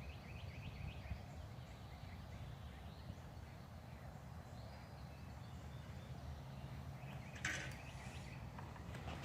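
Faint songbird chirps, mostly in the first few seconds, over a steady low background rumble, with a brief hissing rustle about seven and a half seconds in.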